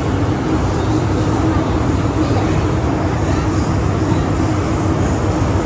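MTR M-Train electric multiple unit running at speed, heard from inside the train: a steady rumble of wheels on rail with a low steady hum under it.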